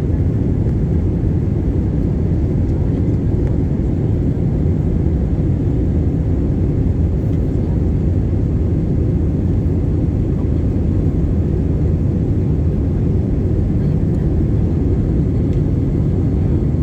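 Airliner's jet engines and airflow, a steady low rumble heard from inside the passenger cabin during take-off and climb.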